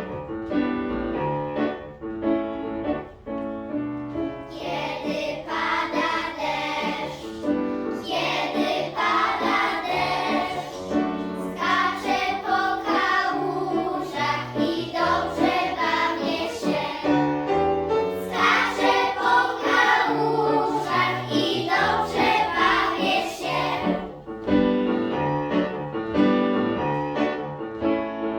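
A child's voice singing a song with piano accompaniment. The piano plays alone for the first few seconds and again near the end.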